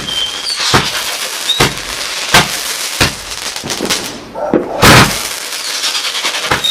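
Fireworks going off: a run of sharp bangs, roughly one or two a second, over a steady crackle, with brief whistles early on and the loudest bang about five seconds in.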